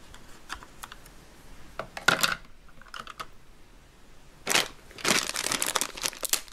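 Light clicks and taps of hard plastic toy parts being handled, then a clear plastic bag crinkling steadily for the last couple of seconds as it is picked up and handled.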